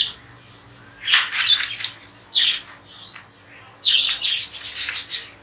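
Pet parrots giving harsh, shrill calls in a few bursts, with the longest run of calling near the end.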